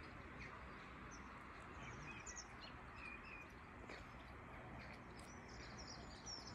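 Small birds chirping now and then over a faint steady outdoor hiss.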